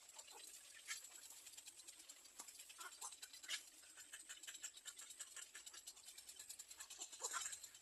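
Near silence: a few faint, soft scratches and ticks over a steady high hiss.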